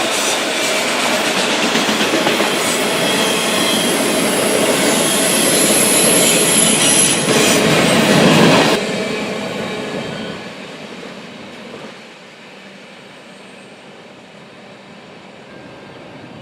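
Freight train rolling past close by, its wheels clattering on the rails with a thin high wheel squeal through the first half. About nine seconds in the noise drops sharply, then fades away.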